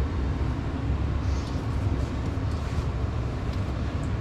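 Gas furnace blower running steadily, mostly low in pitch, with the burners shut off so the air carries the remaining heat off the heat exchanger.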